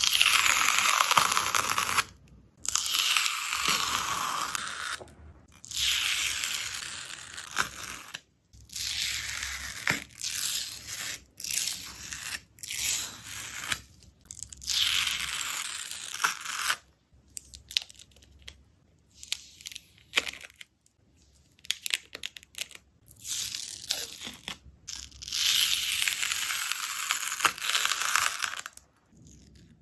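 Dried skin on a slime being torn and pulled apart, giving a crackly, hissing tearing sound. It comes in repeated pulls of one to three seconds, separated by short pauses and a few single crackles.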